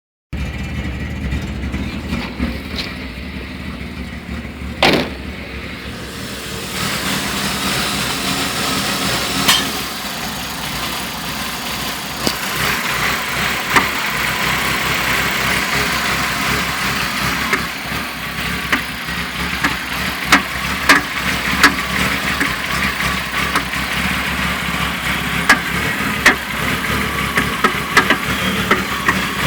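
BMW M50B20 2.0-litre inline-six engine running steadily, with sharp irregular clicks over the hum that come more often in the second half: the strange noise the owner is trying to pin down. A single louder click comes about five seconds in.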